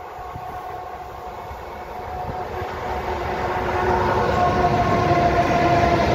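Electric freight train of Škoda locomotives hauling loaded coal wagons approaching and passing close by. It grows steadily louder: a rumble of wheels on rail under a steady whine that drops slightly in pitch as the locomotives go past, loudest from about four seconds in.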